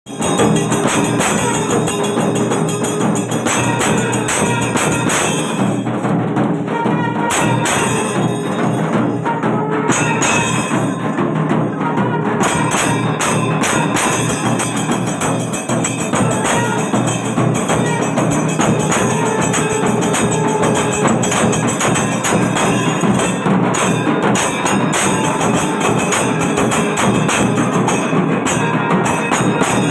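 Kailanatha melam, a Tamil temple percussion ensemble, playing a dense, unbroken beat.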